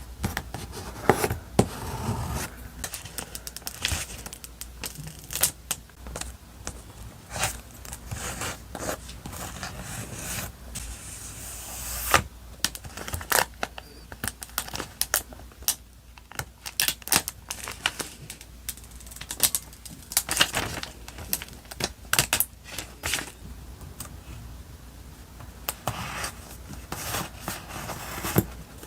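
Paper stationery and stickers being handled for journaling: rustling, crinkling and peeling, with many short sharp taps and clicks.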